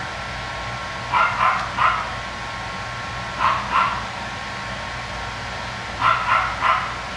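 Coton de Tulear puppies barking in short, sharp yips that come in quick runs of two or three, over a steady background hum.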